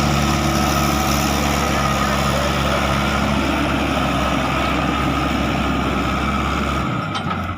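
Steady truck-engine idling sound, cutting off about seven seconds in.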